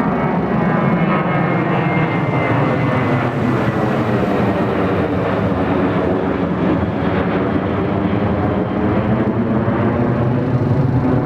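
Boeing 737-800's CFM56 turbofan engines at takeoff thrust, a loud steady jet roar whose whine falls in pitch during the first couple of seconds as the airliner passes.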